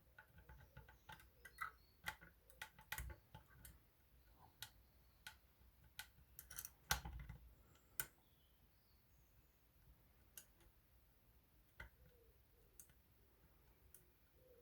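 Light metal clicks and ticks of a lever-lock pick and tension tool working the levers inside a Union 3G110 five-lever lock. The clicks come in quick clusters, then thin out to single ticks after about eight seconds.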